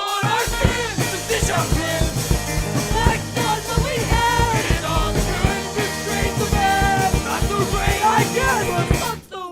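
Rock band recording: a sung vocal line over drums and band accompaniment with a steady beat. The music drops out for a moment near the end.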